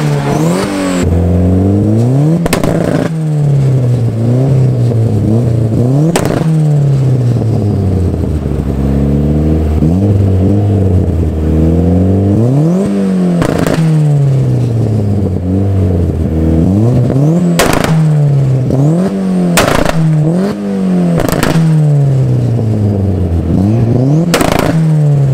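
Car engine being two-stepped: revved again and again against a launch-control limiter, its pitch climbing and falling and sometimes held flat, with about eight loud, sharp exhaust cracks spread through it. It is loud enough to hurt the ears.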